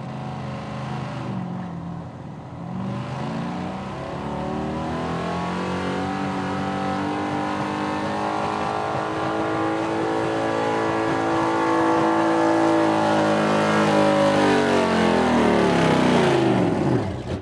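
Pulling truck's engine held at full throttle under load on a pull run, growing louder and rising slowly in pitch, then the throttle is cut about a second before the end and the revs fall away.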